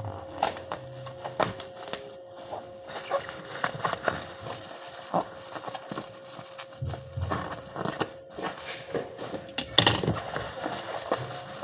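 Irregular small clicks, knocks and rustles from objects being handled, with a steady faint hum underneath.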